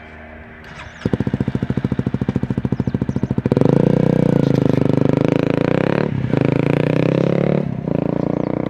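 Honda Rebel 250's single-cylinder engine running through an aftermarket slip-on muffler: it idles, about a second in the revs rise to a fast, even throb, and from about three and a half seconds it runs louder at higher revs, dipping briefly twice near the end.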